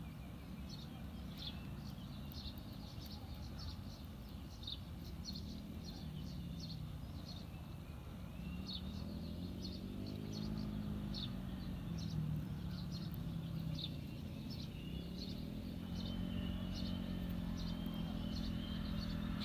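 Engine hum of passing motor vehicles, swelling and fading twice. Over it, short high bird chirps repeat steadily, about one or two a second.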